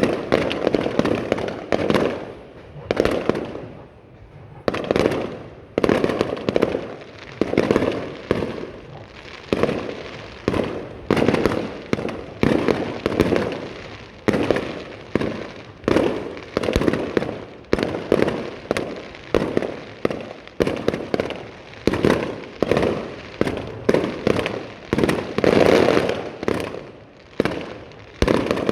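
Aerial fireworks shells bursting one after another, about one to two bangs a second, each bang dying away quickly before the next.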